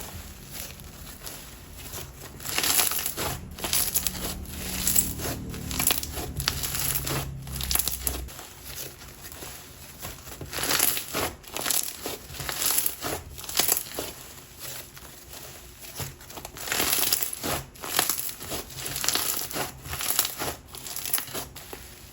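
Snow Fizz perlite slime being squeezed and stretched by hand, crackling and crunching in irregular bursts.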